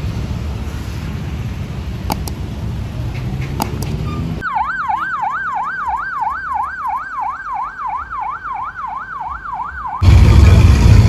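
Low rumbling background with a few sharp clicks, then an electronic siren wailing fast up and down, about three sweeps a second, for roughly five seconds. About ten seconds in, a very loud, bass-heavy sound system cuts in suddenly.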